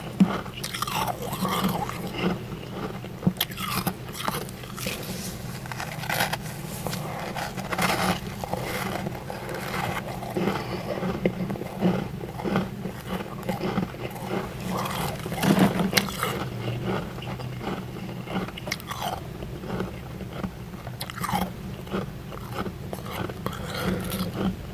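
Close-miked biting and chewing of powdery humidifier freezer frost: a continuous run of crisp crunches, with a louder bite about fifteen seconds in.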